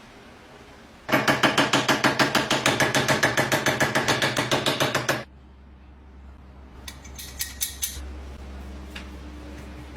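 A fast, even run of metallic strokes, about eight or nine a second, lasting about four seconds; a few light clicks follow near the end.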